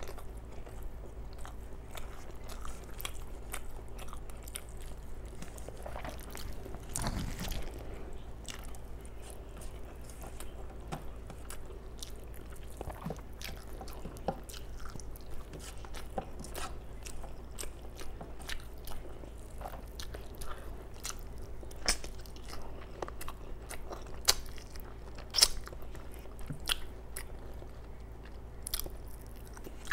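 Close-miked chewing of rice and mutton curry: wet mouth smacks and many short clicks, a few sharper ones in the last third, over a faint steady hum.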